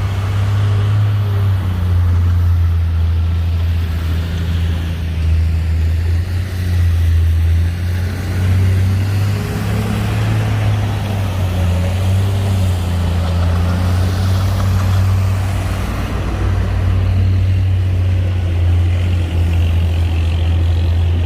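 Heavy diesel engine of earthmoving equipment running steadily with a deep drone, its pitch and load wavering slightly.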